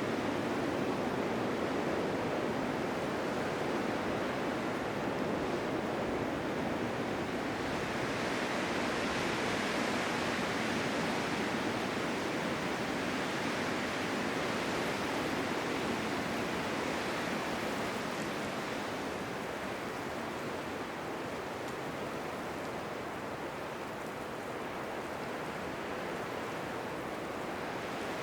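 Blizzard wind blowing as a steady rushing hiss that swells higher and brighter about eight seconds in, then slowly eases back down.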